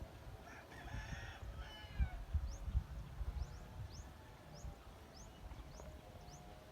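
A rooster crowing once, about half a second in, a single drawn-out call of about a second and a half.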